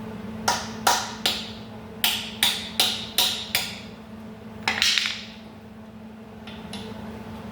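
Hammer striking metal: about eight sharp, ringing taps in two quick groups, then one more about a second later. A steady low hum runs underneath.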